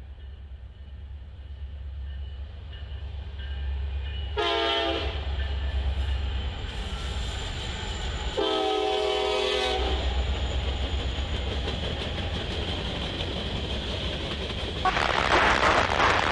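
Norfolk Southern locomotive horn sounding a short blast about four seconds in, then a longer blast about four seconds later, over a low diesel rumble that grows louder. Near the end a loud rushing clatter sets in as the train passes at speed.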